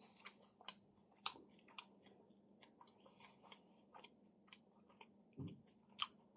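Faint, close-miked chewing with wet mouth clicks scattered through, a sharper click about a second in and another near the end, and a soft low thump shortly before it.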